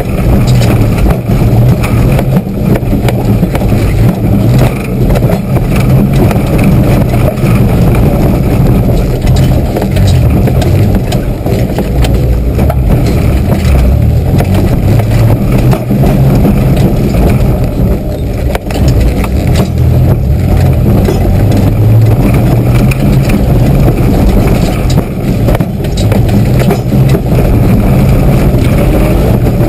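Mitsubishi 4x4's engine running loud under load, heard from inside the cabin, its pitch rising and falling as the driver works the throttle off-road. Short knocks and rattles from the body come through as it goes over rough ground.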